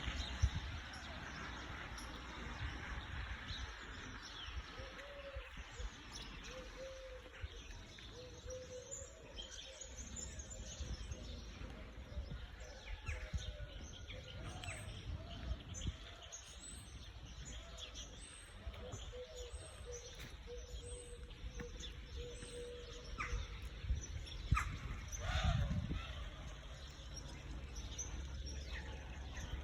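Birds chirping and calling, with many short high chirps and a run of lower, evenly repeated call notes through the middle, over a steady low background rumble.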